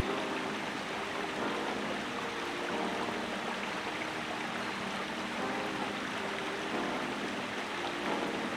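Steady rushing noise, like running water in a stream.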